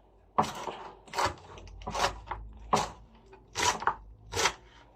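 Knife cutting through thinly sliced leafy greens on a chopping board, about six crunchy cuts at an even pace.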